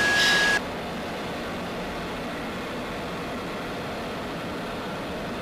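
Steady rushing noise inside an F-16D fighter's cockpit, the jet engine and air-conditioning flow. Just after the start, a steady tone with pulsing hiss about once a second cuts off suddenly, leaving only the even cockpit noise.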